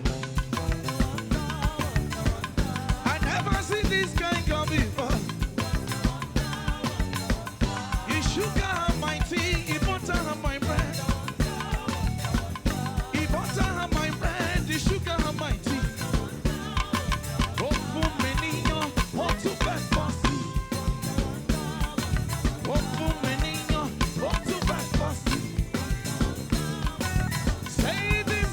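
Live gospel praise band music with a steady drum-kit beat under bass and melodic instruments.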